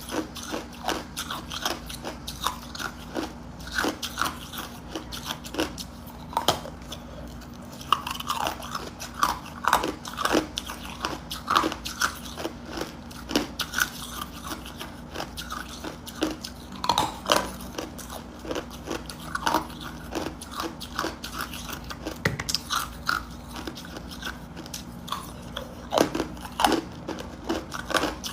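A person biting and chewing hard ice cubes: repeated sharp crunches in quick runs of several per second, with short pauses between mouthfuls.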